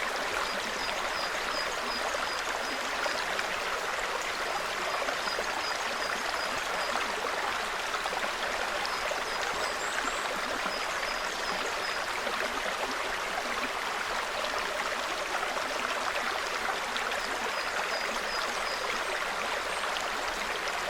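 Small forest stream babbling steadily over rocks. Over it a small bird calls in runs of several short, high, evenly spaced notes, repeated several times, with a couple of higher notes about halfway through.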